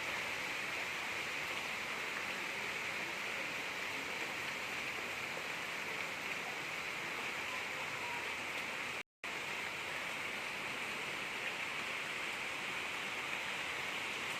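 Gentle rain falling steadily: an even hiss with no thunder. A split-second dropout to silence about nine seconds in.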